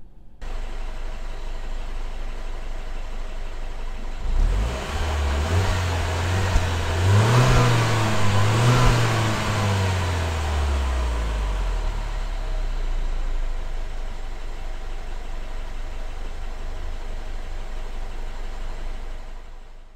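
BMW 316i's N13 four-cylinder petrol engine running, heard from behind the car. Its note rises about four seconds in, peaks twice around eight to nine seconds, then settles back to a steady idle.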